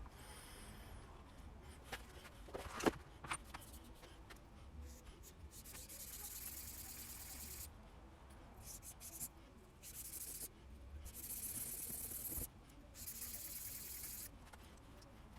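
Steel broadhead blade being rubbed on a water stone while sharpening: a hissing scrape in several passes of a second or two each, with short pauses between them, after a few light taps in the first seconds.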